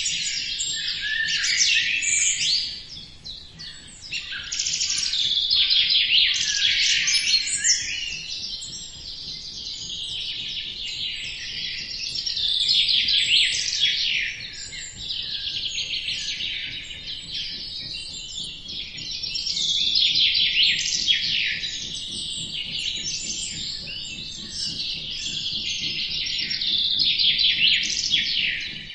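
Many birds chirping at once: a dense, continuous chorus of short, high chirps and twitters, overlapping so that it swells and eases in loudness every few seconds.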